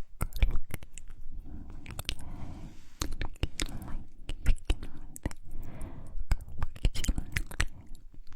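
Close-miked ASMR mouth sounds: a rapid, irregular run of wet clicks and smacks from the lips and tongue, with a few soft breathy stretches between them.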